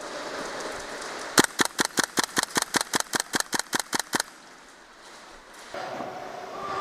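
An airsoft gun firing a rapid string of about sixteen shots, some six a second, that stops abruptly after about three seconds.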